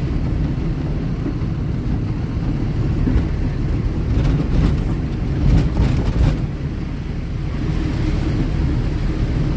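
Diesel engine of an Ashok Leyland Ecomet truck running steadily on the road, heard inside the cab together with road noise. A few short rattles come through about halfway.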